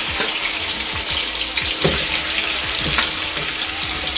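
Onions frying in sunflower and olive oil in an aluminium pot, sizzling steadily with scattered pops, as a bowl of marinated onions, peppers and tomato is tipped into the hot oil.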